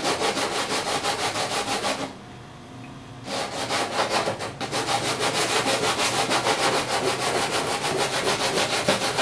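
Sandpaper rubbed rapidly back and forth by hand over a ding in a surfboard, sanding the damaged spot smooth. The strokes stop for about a second roughly two seconds in, then resume and continue steadily.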